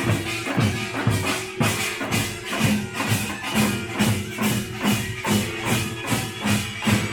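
Korean pungmul percussion band playing: drums and bright metal percussion beat a steady, driving rhythm of about two strong beats a second.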